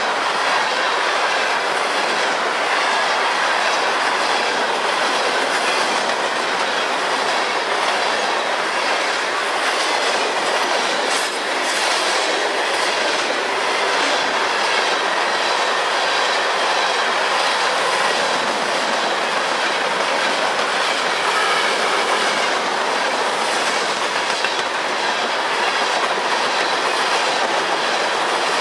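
Freight train cars rolling past, a steady loud rumble and clatter of steel wheels on the rails, with a brief high squeal about eleven seconds in.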